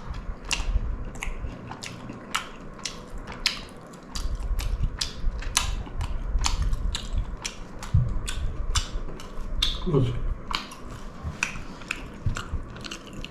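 A person chewing a mouthful of chicken close to the microphone, with a run of sharp, wet mouth clicks about two to three a second.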